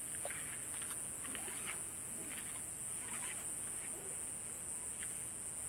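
Insects singing in a steady high-pitched chorus, with the light, irregular crackling of a campfire burning.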